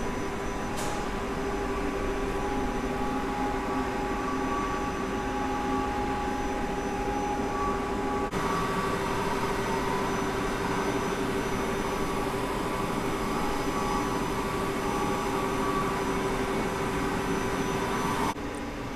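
Steady machine hum with several held tones over a hiss, from the DMG Gildemeister CTX-510 CNC turning center powered up and idling. The sound breaks off abruptly about eight seconds in and drops sharply in level near the end.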